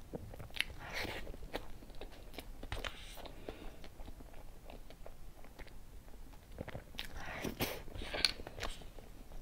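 Close-miked mouth sounds of a person eating soft cream cake: chewing with scattered soft clicks, busiest about a second in and again from about seven seconds in.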